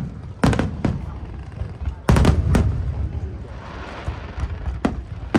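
Aerial fireworks bursting: sharp booms in pairs, one pair about half a second in, another about two seconds in and a third near the end, each followed by a low rumble. Between them a crackling hiss rises and fades.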